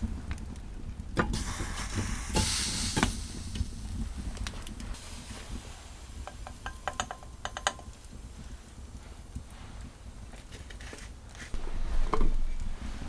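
Strong winter wind making a low steady rumble, with scattered clicks and knocks from handling. A rush of hiss comes about one to three seconds in, and louder knocks come near the end.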